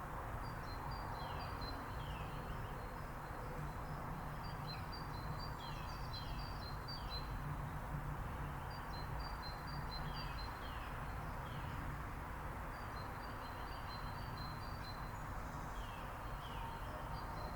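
Small birds calling in several bouts: rapid series of short, high chirps together with brief downward-sliding notes, repeated every few seconds over steady background noise.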